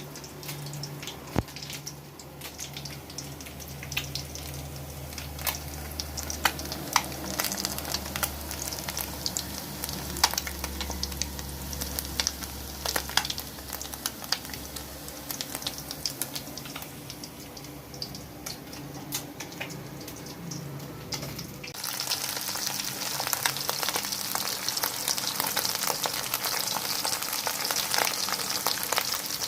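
Breaded linh fish deep-frying in hot oil: a steady sizzle with scattered sharp pops and crackles. About three-quarters of the way through, the sizzle turns suddenly louder and denser.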